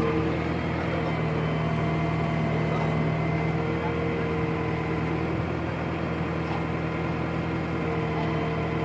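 Heavy diesel engine running steadily at a constant speed, with an even low hum and no revving.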